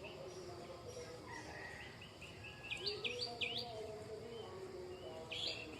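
Mixed birdsong: a scatter of short chirps, and about three seconds in a run of three loud, sharp whistled notes that swoop down and up, repeated once more near the end. Fainter, lower calls carry on underneath.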